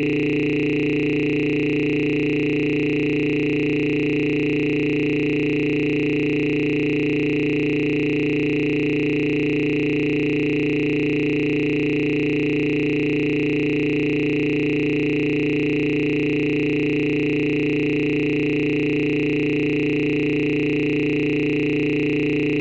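A steady electronic drone: several held tones sounding together, without any change.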